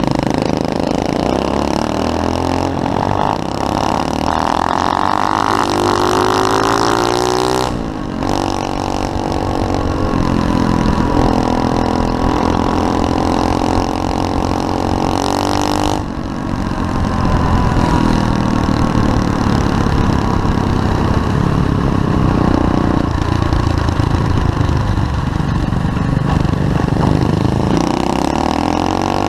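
SSR 125cc pit bike's single-cylinder four-stroke engine running under riding, revving up and down as it accelerates and backs off. The sound breaks off abruptly twice, about 8 and 16 seconds in.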